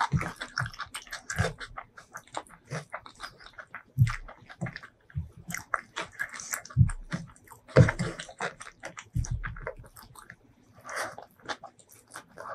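Close-miked eating sounds: chewing with irregular wet clicks and smacks of the mouth, along with fingers mixing and pressing cooked rice on a wooden board.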